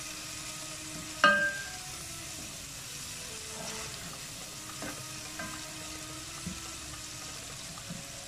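Spiced tomato-onion masala sizzling as it is stirred and fried with a spatula in a non-stick pot. About a second in there is one sharp knock with a brief ring.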